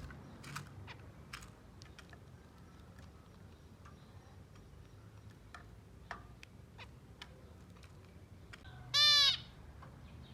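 Zebra finches making scattered short chirps and ticks, then one loud call about nine seconds in.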